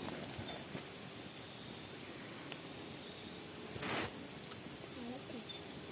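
Steady chorus of crickets trilling in a rural night, with a short burst of noise about four seconds in.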